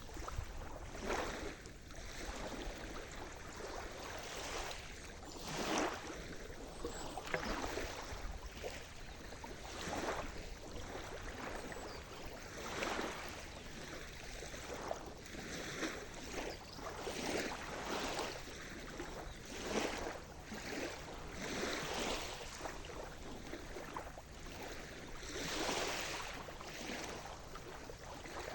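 Sea surf: small waves breaking and washing in, in irregular surges about every one to three seconds, each a short rush of noisy wash.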